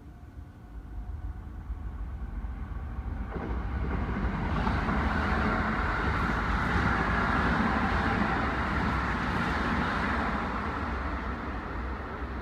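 Keikyu Line electric train approaching and running past, its running noise building over the first few seconds, loudest in the middle and easing slightly near the end.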